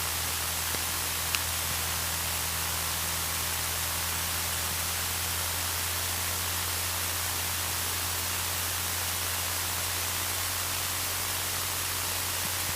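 Steady hiss over a low, even hum: the Cessna 152's engine at taxi power heard through the cockpit headset and intercom audio, with a small click about a second and a half in.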